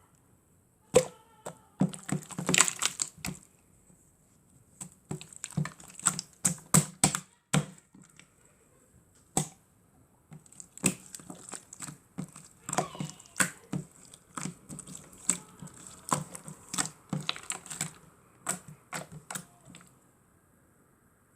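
Slime being squeezed and pressed by hand, making sharp, irregular clicking and popping sounds in quick clusters, with short pauses between them.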